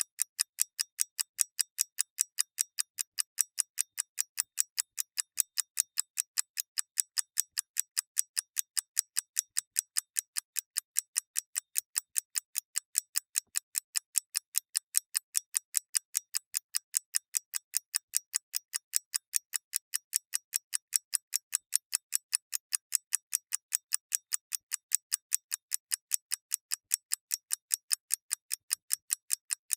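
Clock mechanism ticking: fast, even, crisp ticks, several a second, with no other sound.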